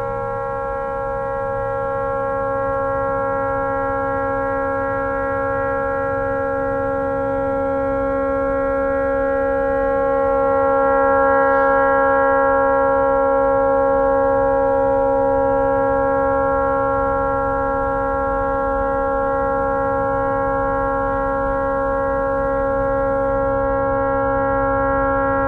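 A tugboat's horn stuck on after a malfunction, sounding one continuous, unwavering tone with no breaks. It swells slightly about halfway through.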